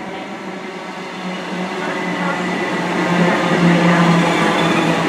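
Class 90 electric locomotive standing at the platform, with a steady low hum from its equipment that grows louder about a second and a half in.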